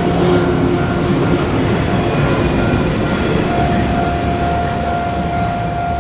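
A JR East 485-series 'Yamadori' special train passing over a level crossing, its wheels rumbling loudly on the rails. A brief high hiss comes about two seconds in, and a steady high-pitched tone starts about halfway through and holds.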